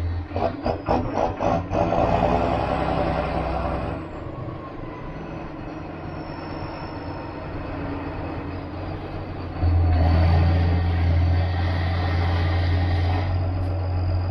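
John Deere 7530 Premium tractor's engine running while drawing maize, with a quick run of knocks and rattles in the first two seconds. About ten seconds in, the engine grows louder and stays up.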